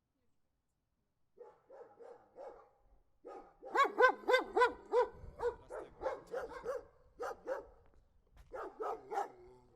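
An angry dog barking. A few softer barks come first, then a fast run of loud barks at about three a second, a short pause, and another quick burst near the end.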